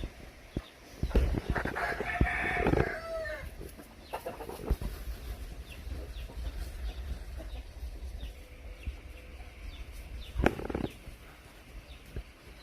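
A rooster crowing once, a drawn-out call of about two seconds starting roughly a second and a half in.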